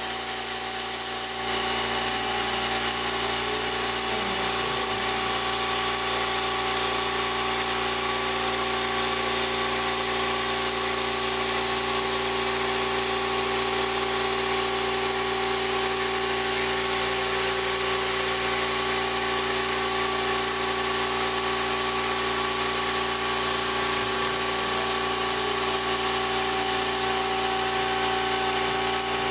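Router spindle of a homemade CNC machine running at about 25,000 RPM, a quarter-inch O-flute endmill milling aluminium: a steady high whine over constant cutting noise, a little louder from about a second in.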